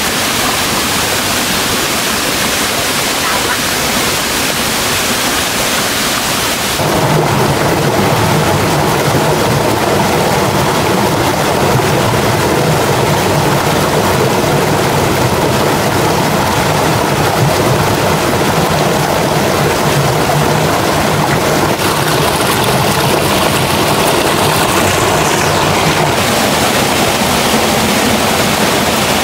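Rushing water of a mountain stream pouring over a waterfall, a steady, loud rush. About seven seconds in it becomes louder and deeper.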